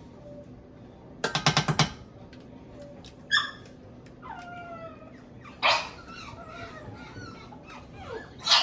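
Hungry dogs barking, yipping and whining for their food: a quick run of sharp sounds, short barks, and a high whine that falls in pitch.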